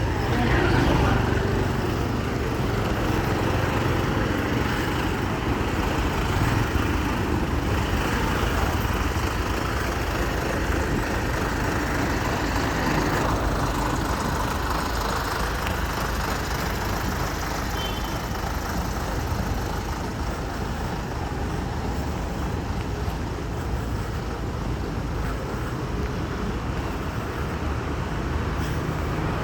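Steady road-vehicle noise, a continuous low rumble with a broad hiss over it and no distinct events.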